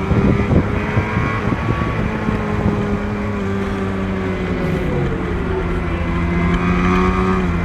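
Racing motorcycle engines running at high revs on track, a steady engine note that wavers in pitch and falls about five seconds in as a bike slows, then climbs again near the end.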